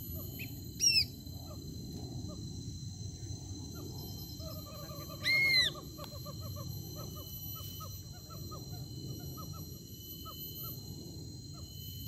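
Two loud, short whistled bird calls, each rising then falling in pitch, about four seconds apart, with a quick run of softer chirps around the second. A steady high-pitched insect drone runs underneath.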